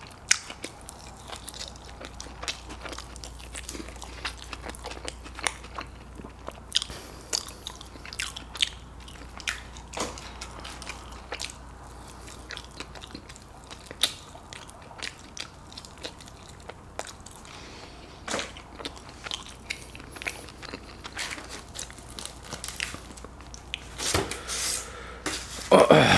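Close-miked chewing and biting on a buffalo chicken wing, meat gnawed off the bone, with many small sharp clicks throughout. A louder sound near the end as a slice of pepperoni pizza is lifted from the box.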